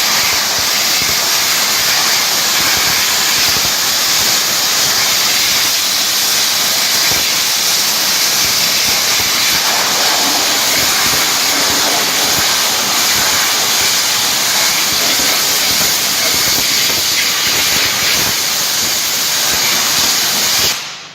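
High-pressure washer jet spraying water, a loud, steady hiss that cuts off near the end.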